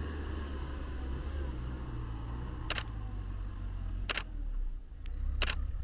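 A 4x4 vehicle's engine running at a low, steady rumble at slow crawling pace, with three sharp clicks in its second half, spaced about a second and a half apart.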